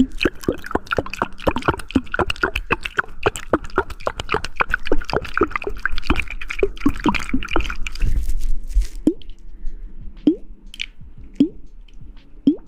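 Wet squishing and clicking close to the microphone, rapid and dense for about eight seconds. After that come a few separate drip-like plops, each dropping in pitch.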